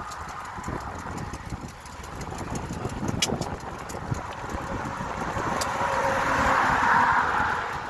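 Wind buffeting the microphone of a camera carried on a bike ride, with a motor vehicle passing that grows louder toward a peak about seven seconds in and then fades. Two sharp clicks come partway through.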